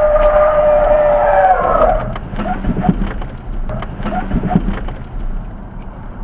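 Vehicle horn held in one long steady blast that cuts off about two seconds in, sounded at a driver who pulled out without looking. Engine and road noise from the truck follow, with a few brief short sounds.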